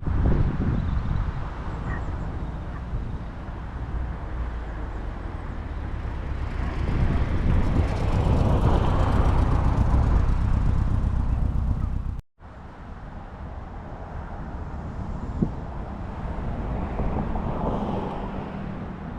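Cars driving past at low speed: engine and tyre noise swells as one car comes closest about nine seconds in, then after an abrupt cut a quieter stretch with another car going by.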